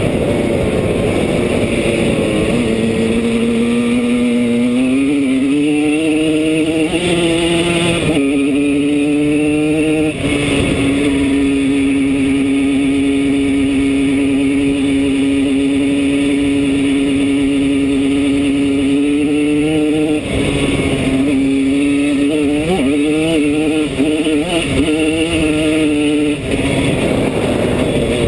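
Lightly tuned Simson S51 enduro's 50 cc single-cylinder two-stroke engine under way: the revs climb through the gears with short breaks at the shifts, hold steady for about ten seconds, then rise and fall with the throttle before another shift near the end.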